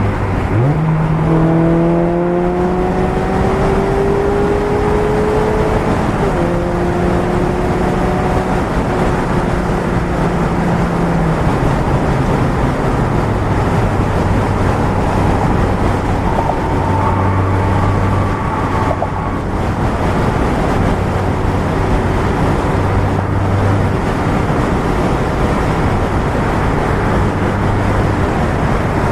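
Mazda MX-5 Miata four-cylinder engine through a Goodwin Racing RoadsterSport race exhaust while driving. The note climbs under acceleration for the first few seconds, steps at about six seconds, then holds steady. About twelve seconds in it drops to a lower, steady cruising note, over a constant rush of road noise.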